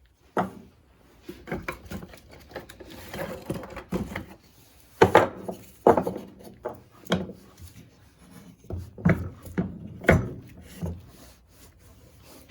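Irregular knocks, clunks and scraping of tools and heavy engine parts being handled and set down on a workbench, about a dozen separate hits, the loudest around the middle; no drill is running.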